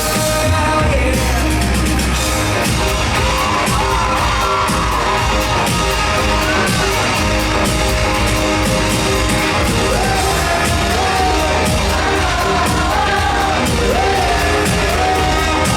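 Live rock band playing amplified in a hall, with a lead vocal singing the melody over drums, bass and guitars.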